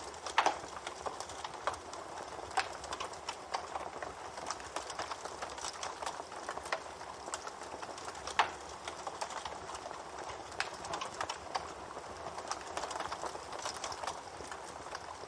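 Wood fire crackling steadily, with a dense run of irregular small snaps and a few louder pops, the loudest just after the start and another about halfway through.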